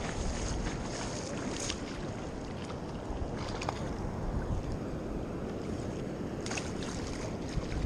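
Wind blowing across the microphone over the wash of surf on a sandy beach, a steady rumbling hiss with a couple of brief faint clicks.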